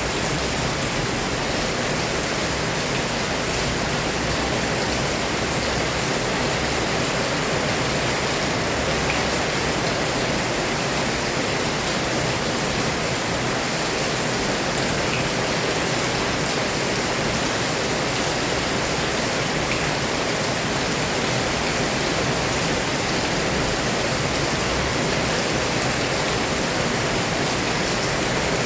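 Heavy downpour of rain: a dense, steady hiss that does not let up.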